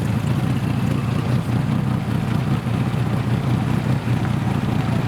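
Boat engine running steadily with an even low rumble, heard from aboard the boat.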